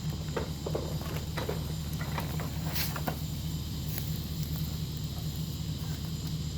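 Outdoor background: a steady low hum under a faint, high, steady buzz, with scattered light ticks and rustles over the first few seconds and a couple of sharper clicks near the middle.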